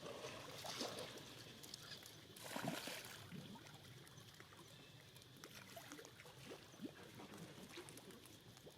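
Faint water trickling and sloshing with a few short, scattered animal sounds, and a brief louder rush of noise about two and a half seconds in.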